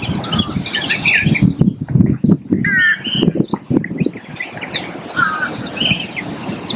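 Birds calling in short chirps and squawks over an irregular low rumble with scattered knocks.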